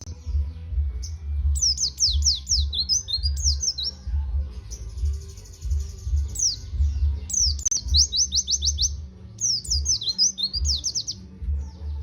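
White-eye (pleci) song: repeated bursts of rapid, high, falling notes, with a buzzy trill in the middle, played as a lure recording to set other white-eyes singing. A pulsing low thud runs underneath.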